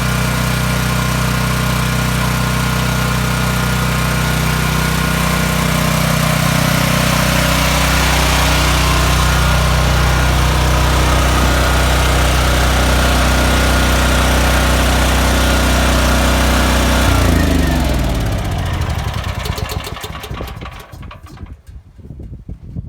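Gas-powered generator engine running steadily, then shut off about 17 seconds in: its pitch falls and it chugs to a stop over the next few seconds.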